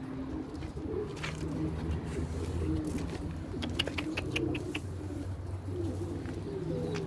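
Domestic pigeons cooing over a steady low hum, with a quick run of sharp clicks about four seconds in.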